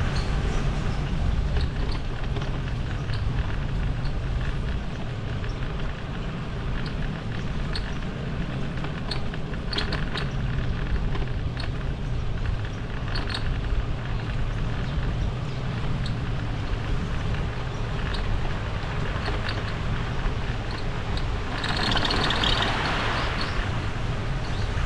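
Steady low rumble of wind and road noise while riding, with scattered light ticks and a brief louder hissing rush near the end.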